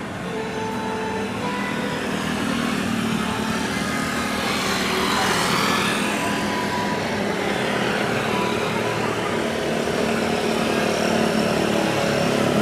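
Airbus A320-214 jet, with CFM56 engines, passing on its landing approach. A steady jet noise swells, with a sweeping hiss that rises then falls about five seconds in as the aircraft goes by.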